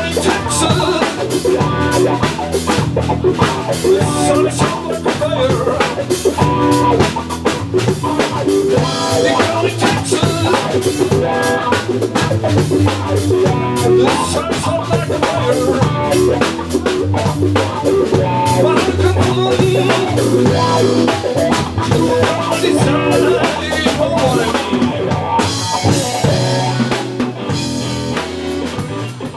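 Blues-rock band playing live without vocals: a drum kit keeps a steady beat with kick, snare and rimshots under electric guitar. The band gets quieter in the last few seconds.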